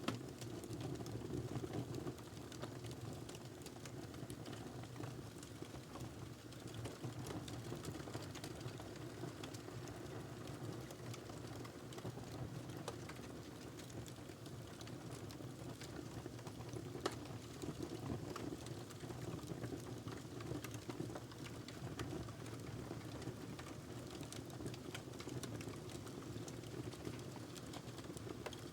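Wood fire in a fireplace crackling: irregular small pops and snaps over a steady low rush of the flames, with one louder pop about 17 seconds in.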